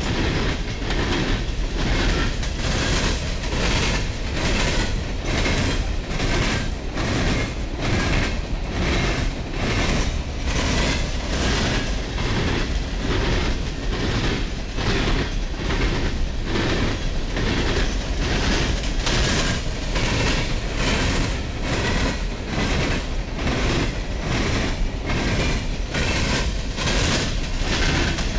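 Freight train of coal hopper cars rolling past: a steady rumble and rush with a regular clicking of wheels over rail joints, about one and a half clicks a second.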